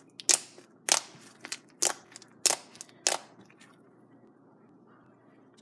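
Foam-bead slime being poked and squeezed, giving about six sharp crackling pops over the first three seconds, then only faint handling.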